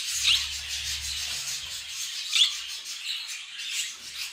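Budgerigars chattering continuously, with two sharp rising chirps, one about a third of a second in and one near the middle. A low rumble runs under the first two seconds.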